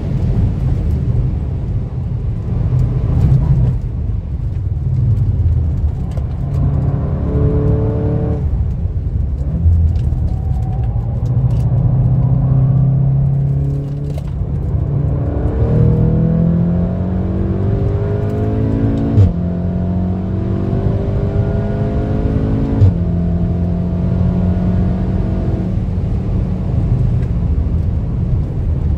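Stage 2 tuned VW Golf 7.5 R's turbocharged four-cylinder with a Milltek downpipe, driven hard on track. The engine note climbs and falls with the throttle, then pulls up through two quick DSG upshifts in the second half, each marked by a short sharp crack, over steady road and tyre noise.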